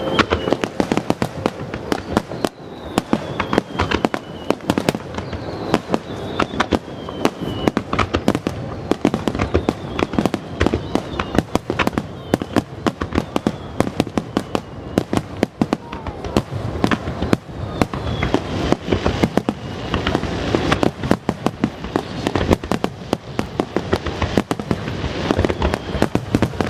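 Aerial fireworks display: a dense, unbroken run of shell bursts and crackling, several reports a second. A few faint whistles fall in pitch now and then.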